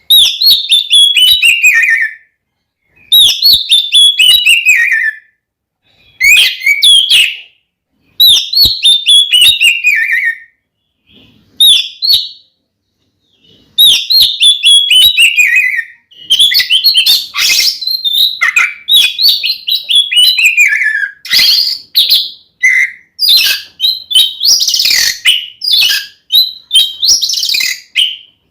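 Oriental magpie-robin (kacer) singing loud, full aggressive song. Its whistled phrases mostly slide downward, at first in bursts of a second or two with short pauses between. From a little past halfway the song runs on almost without a break.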